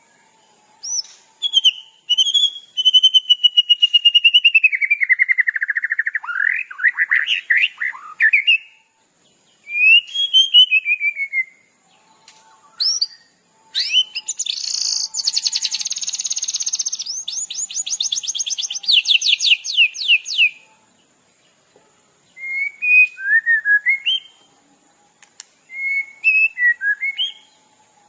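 Songbird singing a varied run of whistled phrases: a long falling whistle that breaks into a trill, short slurred notes, then a fast buzzy trill running into rapid repeated notes for several seconds, and short chirps near the end, with brief pauses between phrases.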